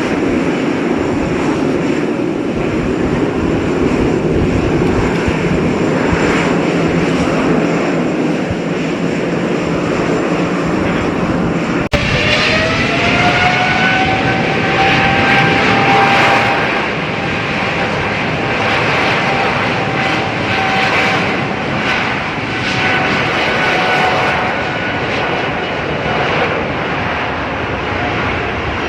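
Jet airliner engines running with a steady roar. About twelve seconds in there is an abrupt cut to another aircraft, whose engine whine rises in pitch and then holds steady over the roar.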